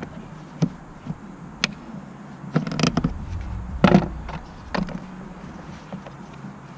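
Irregular clanks and knocks of metal tools and parts being handled during a car clutch job, the loudest a little before the middle, over a low steady hum.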